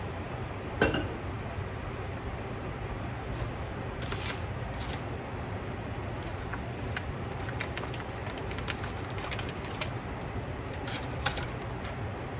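Kitchen clean-up handling: a sharp knock about a second in, then scattered light clicks and clinks of dishes and containers being moved, over a steady low hum.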